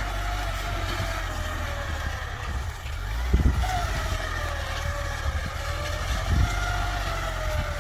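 Tractor engine running, its pitch slowly rising and falling as it works, over a steady low rumble, with two heavier low thumps about a third of the way in and again near the end.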